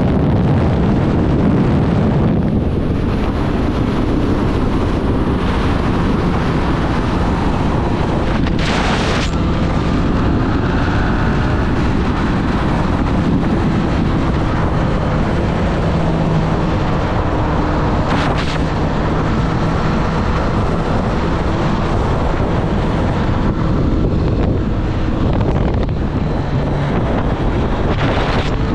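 2024 Triumph Street Triple 765 RS inline-three engine pulling at a fairly steady pitch while riding, under heavy wind rush on the microphone, with two brief louder rushes along the way. Near the end the engine note rises as it revs up.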